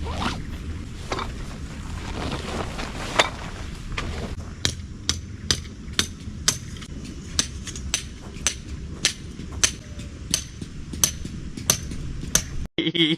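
Hammering: a few scattered strikes, then a steady run of sharp blows about two or three a second, each with a short ringing tail. Low wind rumble on the microphone sits underneath.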